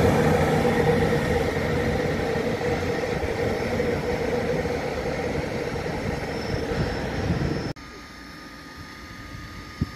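Train running past with a steady mechanical hum that slowly fades, then cuts off abruptly about three-quarters of the way in, leaving a much quieter steady background with a single short click near the end.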